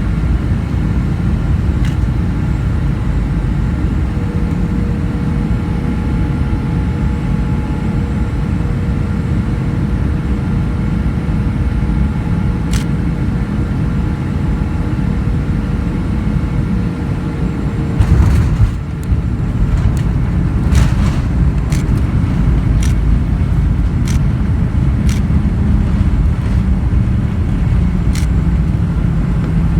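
Boeing 737-400 airliner landing: a loud, steady rumble with a faint steady whine that fades away about seventeen seconds in. A loud thump comes about eighteen seconds in, followed by scattered sharp clicks.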